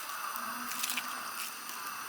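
Pot of motsu nabe broth simmering, bubbling with a few small pops over a steady hiss.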